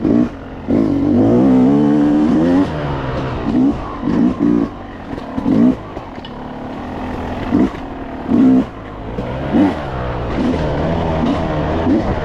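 Yamaha YZ250X two-stroke dirt bike engine under riding throttle, its pitch surging up and falling back in a string of short revs, then running steadier and slowly rising near the end.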